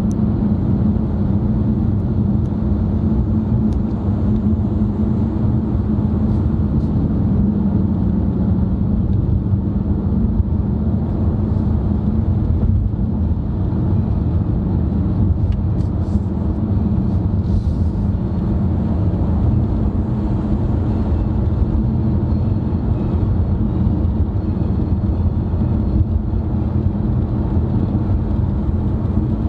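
Steady road and engine noise inside a moving car's cabin: a low drone with a constant hum.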